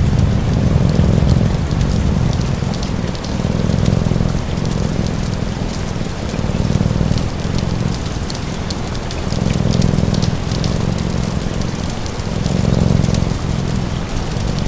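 Steady rain mixed with a crackling fire's sharp little pops, over a cat's low purr that swells and eases about every second and a half with its breathing.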